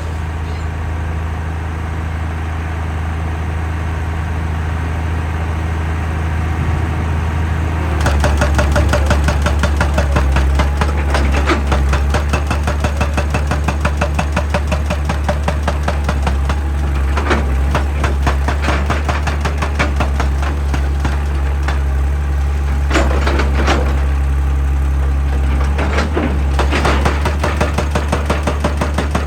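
Excavator's diesel engine running steadily; about eight seconds in, its hydraulic breaker hammer starts striking rock in a rapid, even rattle of blows that keeps going over the engine.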